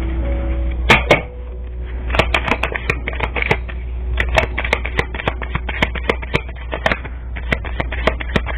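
Tarot cards being shuffled by hand: a quick, irregular run of crisp clicks and slaps, several a second, starting about a second in, over a steady low hum.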